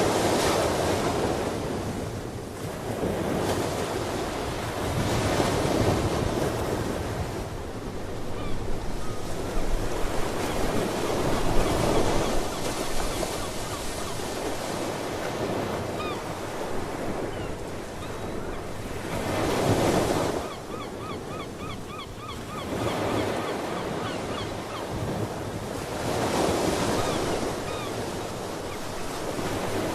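Ocean surf breaking and washing in, swelling and ebbing every few seconds, with seabirds calling now and then, including a quick run of short repeated calls about two-thirds of the way through.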